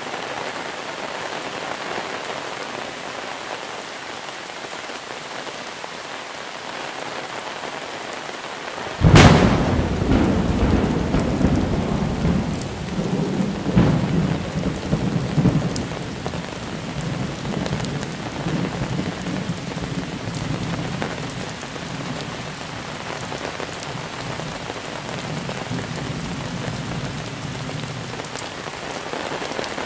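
Steady heavy monsoon rain falling, with a sudden sharp thunderclap about nine seconds in that rolls into a long low rumble of thunder, fading away near the end.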